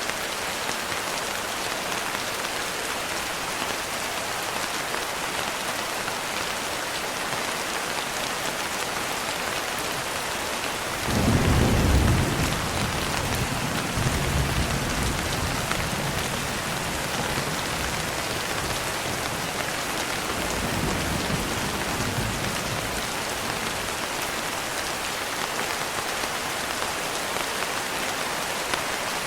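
Steady rain with a clap of thunder about 11 seconds in, its low rumble rolling on and fading away over the next ten seconds or so.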